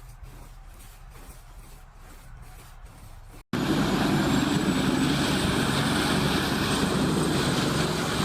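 A large industrial wood grinder, the CBI Magnum Force 8400, running loud and steady at full throttle, its engine and grinding noise dense across all pitches with a thin high whine. It starts abruptly about three and a half seconds in, after a quieter low hum.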